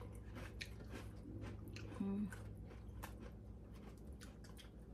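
Faint crunching and chewing of crunchy corn chips, a mouthful at a time, as scattered crackles, with a short hummed 'mm' about two seconds in.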